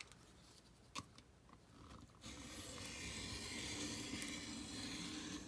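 Craft knife drawn along a ruler, cutting through the thin cardboard of a pudding box: a couple of light taps, then about three seconds of steady scraping as the blade runs through the card.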